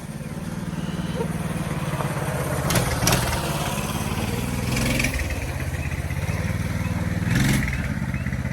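Motorcycle engine running at low revs with a steady, rapid low pulsing that grows a little louder over the first couple of seconds.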